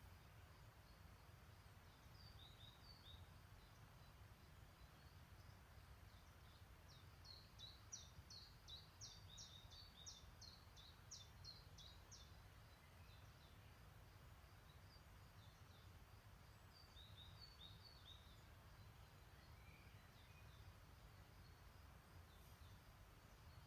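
Faint songbird song: scattered short high chirps, with a fast run of rapid chirps in the middle, over a low steady rumble.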